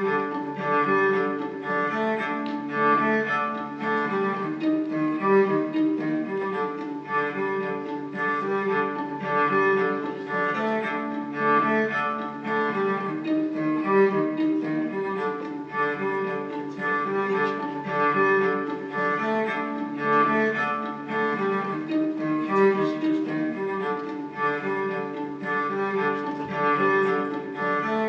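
Music for bowed strings, led by cello, starting suddenly and playing sustained, shifting notes.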